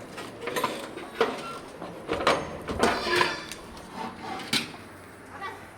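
Irregular knocking and clattering: a series of sharp strikes, loudest and most frequent between about two and three and a half seconds in.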